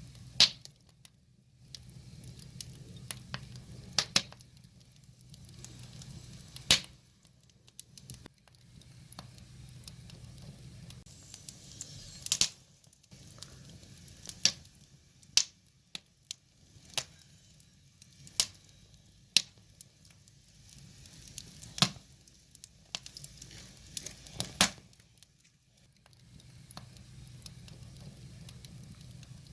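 Wood fire crackling, with sharp pops from the burning logs scattered irregularly, about a dozen, over a low steady rumble.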